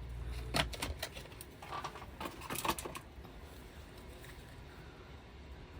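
A stir stick clicking and tapping against a small mixing cup as white pigment is stirred into resin: a run of light, irregular clicks over the first three seconds, then only a faint hum.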